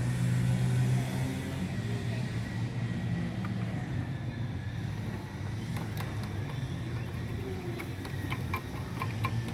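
A motor vehicle engine running steadily, a little louder at the start. A few light metallic clicks in the last few seconds.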